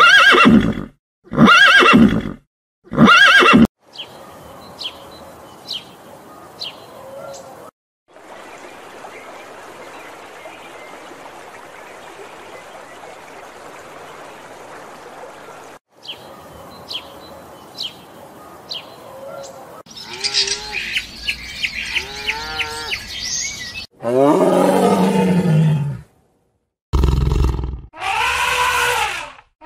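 A run of animal sounds: a horse calls in three short, loud bursts at the start, and a steady rush of stream water comes in the middle. Varied animal calls follow, ending in loud calls that rise and fall in pitch.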